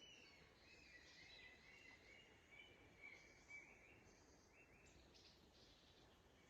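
Faint birdsong: a songbird chirping and twittering in quick short notes, mostly in the first four seconds, over a low steady hiss.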